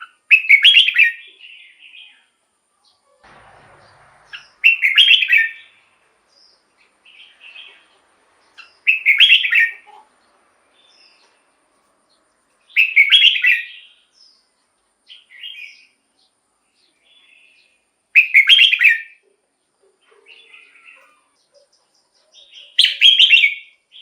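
Red-whiskered bulbul singing: six loud, short, bubbling phrases about every four to five seconds, with softer chirps between them.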